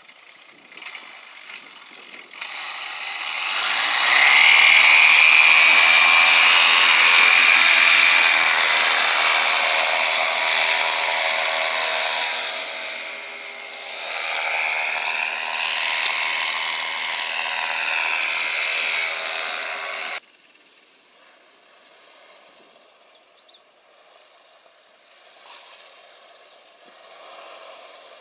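Small propeller engine running at high revs, with a rising whine a couple of seconds in, a dip and a rise again about halfway, then it cuts off abruptly.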